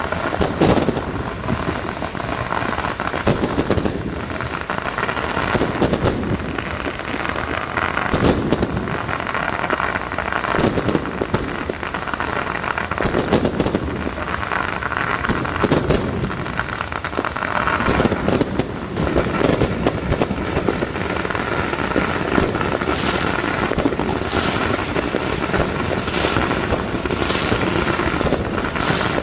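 Fireworks and firecrackers going off in a continuous barrage of bangs and crackling, with no break for the whole half-minute.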